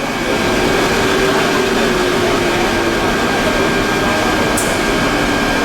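Plastic pelletizing line machinery (PE and calcium carbonate compounding) running steadily: a loud, even mechanical noise with a constant high whine and a lower hum. A short high hiss comes about four and a half seconds in.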